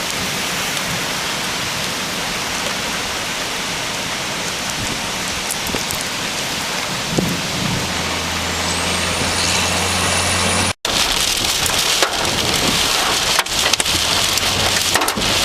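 Heavy rain and wind on a car, a steady rushing noise, with a low hum joining about eight seconds in. After a sudden break near eleven seconds, hail starts hitting the vehicle in sharp, irregular taps.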